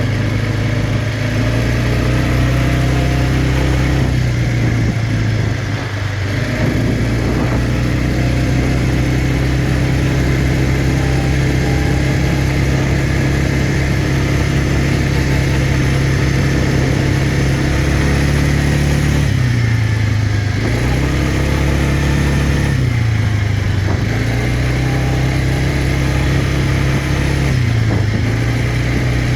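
Quad bike engine running under way, held at a steady speed, with the revs easing off and picking back up three times in the second half.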